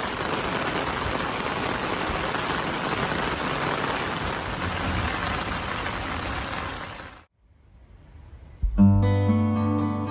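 A steady hiss of water noise for about seven seconds that then cuts off, followed near the end by strummed acoustic guitar background music.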